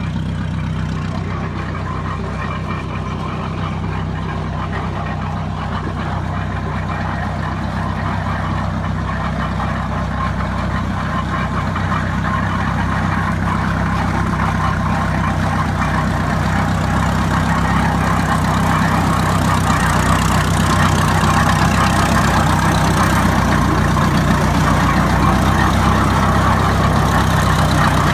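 Old tractor engines running at a steady, low engine note, growing gradually louder as they draw nearer.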